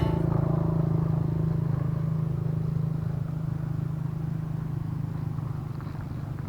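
A steady low engine drone that gradually gets quieter.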